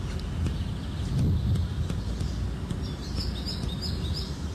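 Low rumble, as of wind on the microphone, with a quick run of five or so short, high chirps about three seconds in.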